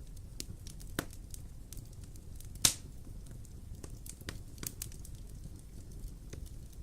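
Wood fire in a fireplace crackling, with irregular sharp pops over a low steady rumble of the flames; one loud pop about two and a half seconds in.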